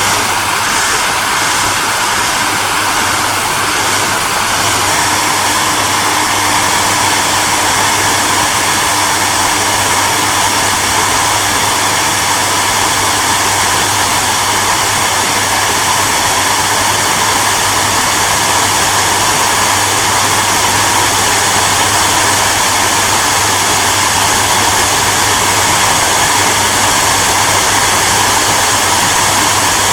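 Hair dryer running steadily, a continuous airy rush with a low motor hum underneath and no change in speed.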